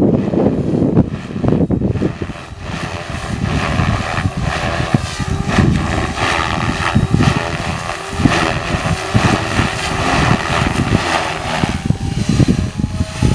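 MSH Protos electric RC helicopter flying 3D manoeuvres: the rotor and electric motor whine, shifting in pitch as the head loads and unloads, with rotor chop and heavy wind rumble on the microphone for the first two seconds or so.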